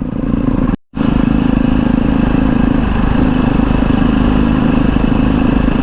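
Motorcycle engine running steadily while riding, with wind noise. The sound cuts out completely for a split second just under a second in.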